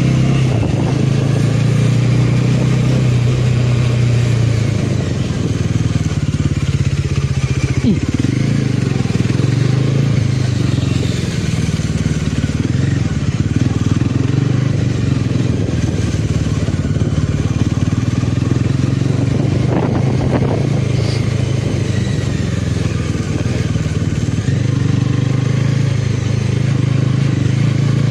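Motorcycle engine running at a fairly steady pace while riding, with wind rushing over the microphone.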